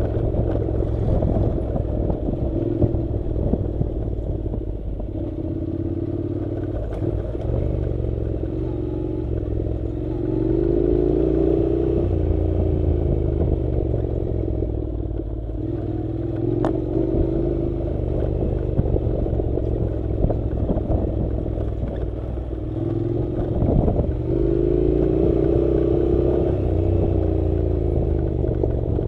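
Honda NC700's 670 cc parallel-twin engine running as the motorcycle rides a rough dirt road. The engine note rises and falls several times with the throttle, over a steady low rumble and constant clatter from the bumpy surface.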